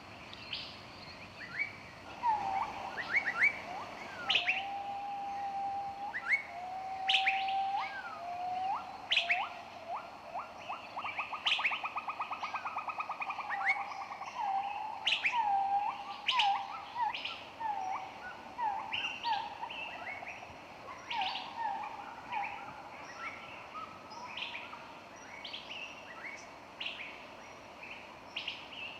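Several songbirds chirping and singing in a forest: many short sharp chirps and sweeping whistles, with lower whistled notes and a long rapid trill in the middle, over a faint steady high hum.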